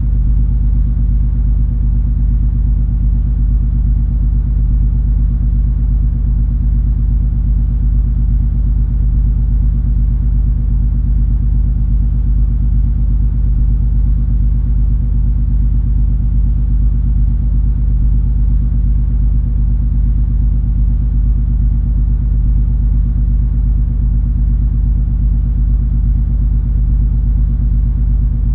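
Cruise ferry MS Color Magic underway: a steady, unchanging low rumble of the ship's engines, with a faint hum.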